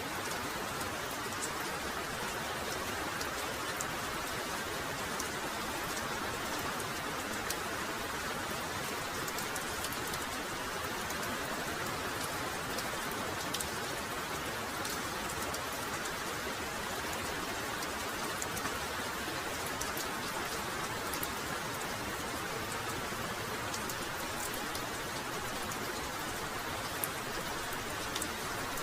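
Heavy rain pouring steadily, an even hiss with scattered sharp drop ticks.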